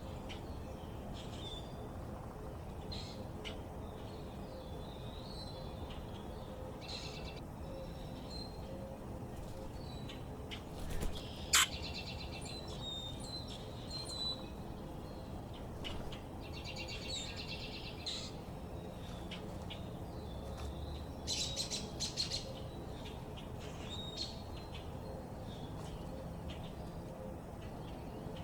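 Backyard songbirds chirping and calling at intervals over a steady low background hum, with louder bursts of calls about a third of the way in and again about three quarters of the way through.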